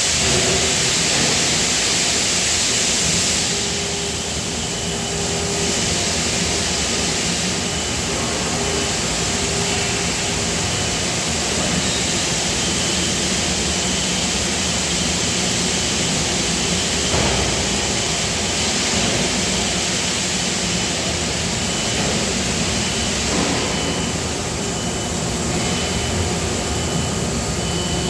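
Steady factory machinery noise on a die-casting floor: a loud even hiss with a low hum and a faint high whine that comes and goes, and a single knock about halfway through.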